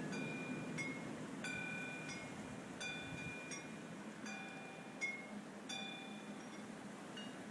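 Wind chimes ringing in a snowstorm, a few bright ringing tones struck again and again and fading quickly, over a steady low rushing noise.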